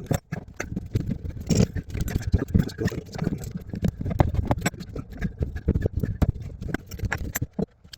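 Rapid, irregular knocking and rattling of metal as the old kitchen tap is worked loose and taken out of the sink.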